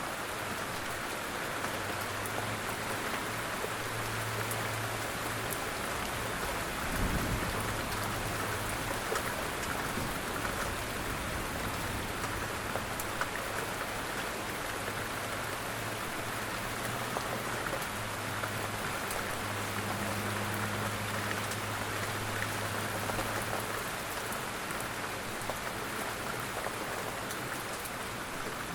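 Steady rain falling, an even hiss with the patter of individual drops on surfaces. A faint low hum sits under it through most of the stretch, and a brief low thump comes about seven seconds in.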